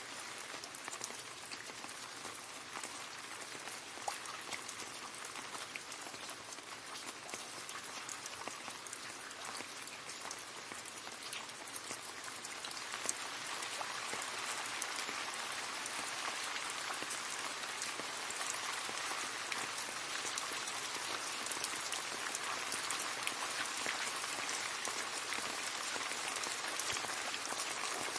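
Rain falling into a puddle: a steady patter with many separate drop splashes, growing a little heavier about halfway through.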